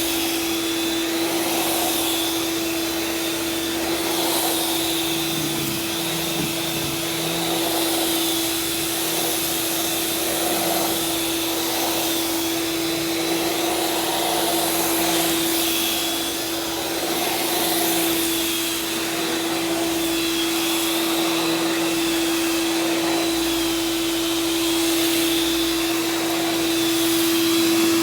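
Vacuum cleaner running steadily over carpet while pre-vacuuming dry soil, a constant hum over a steady rush of air, its level swelling and easing slightly every couple of seconds.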